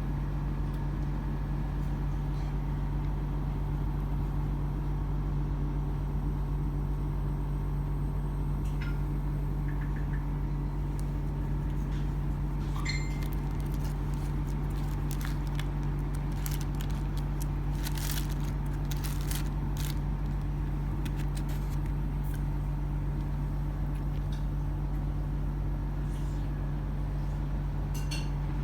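A steady low hum, with scattered light clicks and taps through the middle, bunched most closely around two-thirds of the way in.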